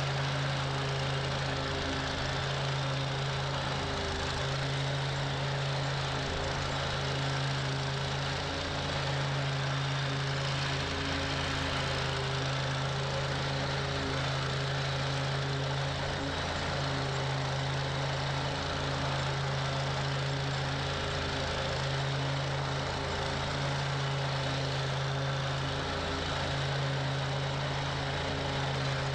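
Toro Grand Stand stand-on mower running steadily, its engine and 48-inch cutting deck droning at a constant speed.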